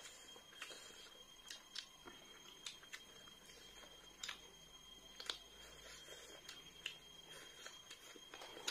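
Faint, irregular mouth clicks and smacks of chewing rice and chicken curry, with a faint steady high-pitched whine underneath.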